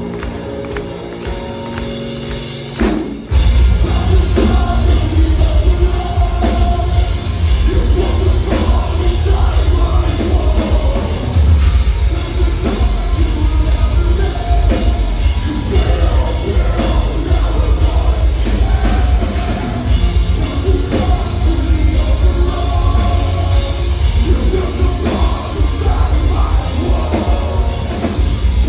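Metalcore band playing live: a few seconds of sustained chords, then the full band crashes in about three seconds in with pounding drums, heavy distorted guitars and bass under shouted and sung vocals.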